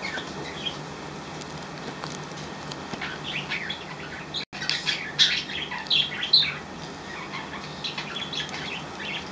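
Pet budgerigars chirping and chattering in quick, short high calls. The calls are sparse at first and grow busier from about three seconds in.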